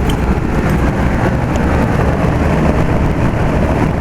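Outdoor central air-conditioner condensing units running: a steady fan noise with a low hum.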